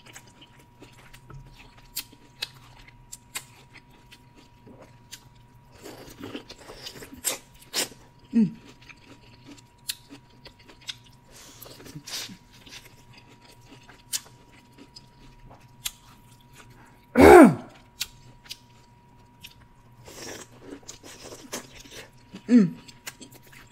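Close-miked biting and chewing of boiled corn on the cob: a run of small wet clicks and crunches as the kernels are bitten off and chewed. Three short vocal sounds from the eater fall in pitch, the loudest about seventeen seconds in.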